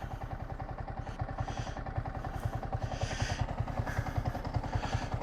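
Motorcycle engine running at idle, a rapid, even low pulsing that grows slightly louder toward the end.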